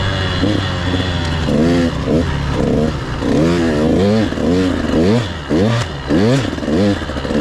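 Husqvarna TC 85 two-stroke dirt bike engine heard from the rider's helmet, its pitch rising and falling over and over as the throttle is opened and closed, the swings coming quicker in the second half.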